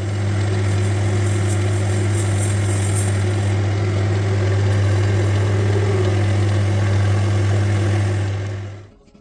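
Electric workshop machine running steadily with a strong low hum, switched on just before and cutting off near the end, with some added high-pitched hiss in the first few seconds.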